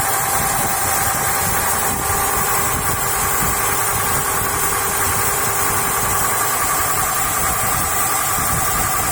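Engine running steadily through a NICO 3:1 marine reduction gearbox, with a steady whine over the engine noise.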